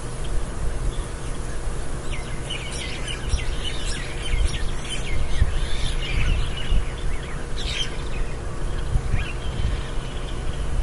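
Outdoor late-afternoon ambience: birds chirping and calling over a steady low rumble of background noise. The birdsong is busiest between about two and eight seconds in.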